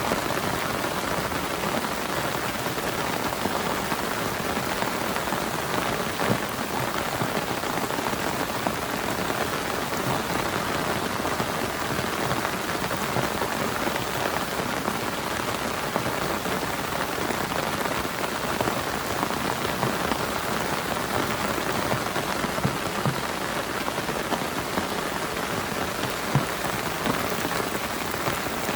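Heavy rain falling steadily, a dense, even patter of drops striking a camping tarp.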